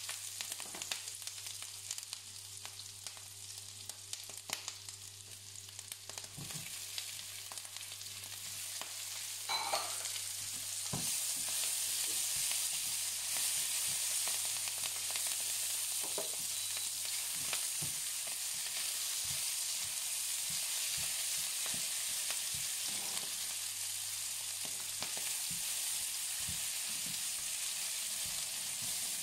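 Garlic and sliced onion frying in oil in a nonstick pan, sizzling, with a silicone spatula stirring and scraping in small ticks. The sizzle grows louder about ten seconds in and stays at that level.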